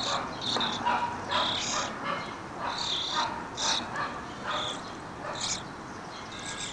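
A tame bird calling over and over, about ten short high-pitched calls at irregular intervals.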